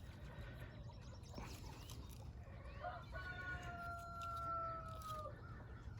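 A rooster crowing once, starting about halfway in: one long, held call that drops at the end.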